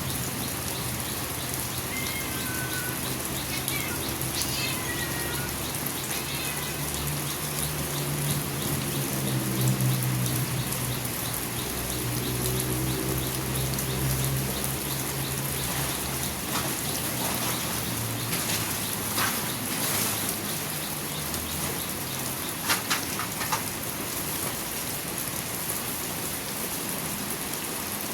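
Steady rain falling, with a low hum through the first half, a few short bird-like chirps early on, and some sharp drip taps in the second half.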